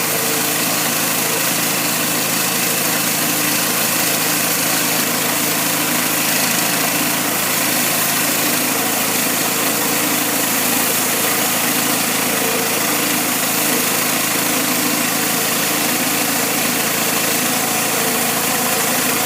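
Engine of a Hudson Oscar 230 portable bandsaw sawmill running steadily at an even speed.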